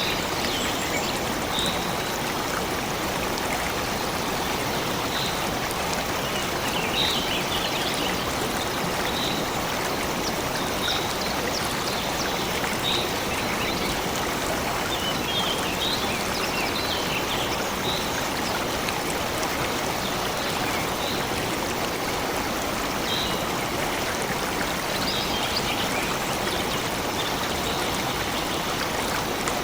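Steady rush of a flowing stream, with small birds giving short, high chirps every second or two over it.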